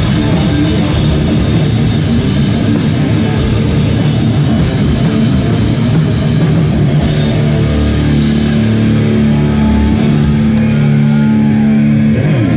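Live hardcore band playing loud distorted guitars, bass and drum kit, ending a song on a held chord that cuts off abruptly near the end.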